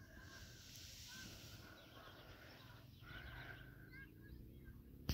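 Faint bird calls: short, arched chirps coming every so often over low background noise.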